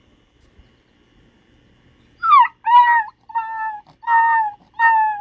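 Beagle puppy whining in a string of high-pitched cries, about five in quick succession, starting about two seconds in. The puppy is protesting after a littermate took his toy.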